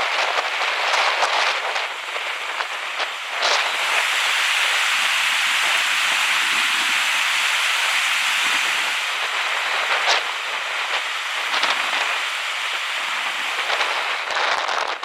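Steady rush of rain and moving water, with scattered sharp drop-like ticks; it grows louder and smoother for several seconds in the middle, then eases off.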